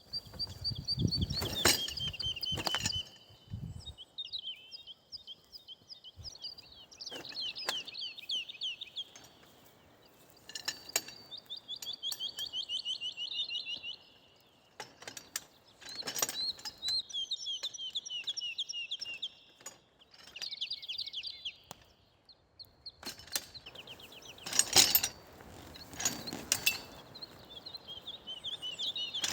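A songbird singing the same rapid trilled phrase over and over, each a couple of seconds long and falling in pitch, with short pauses between. Scattered sharp knocks and clicks sound throughout, loudest about three-quarters of the way in.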